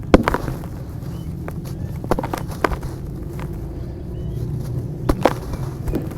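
Chunks of dried dirt crumbling and cracking, with irregular sharp crackles in small clusters over a steady low rumble.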